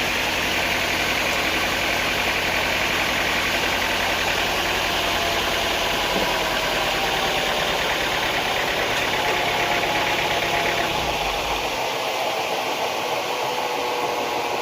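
Engine of sawmill machinery running steadily; its deep rumble drops away about eleven seconds in.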